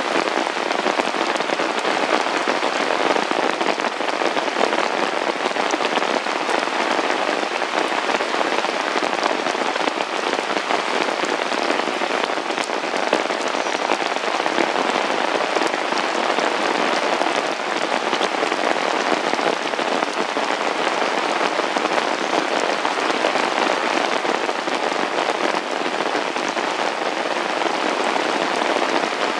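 Heavy rain falling steadily, a dense unbroken patter of drops hitting a surface.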